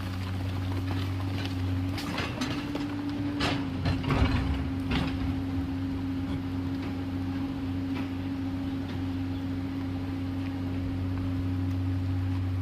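Komatsu PC210LC excavator's diesel engine running at a steady speed, with a few sharp knocks and clanks between about two and five seconds in.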